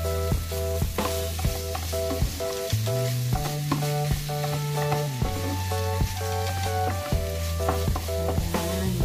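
Ground meat sizzling in a frying pan as it is stirred with a wooden spatula, under background music with a steady beat and bass line.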